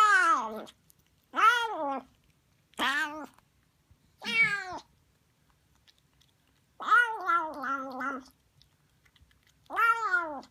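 A kitten meowing over and over: six separate meows, each rising and then falling in pitch, with one longer, wavering meow about two-thirds of the way through.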